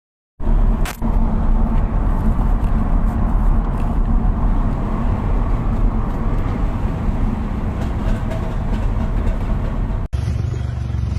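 A motor vehicle running, loud and steady, heavy in the low end. It starts abruptly out of silence, has a sharp click about a second in, and cuts off sharply near the end before a similar sound resumes.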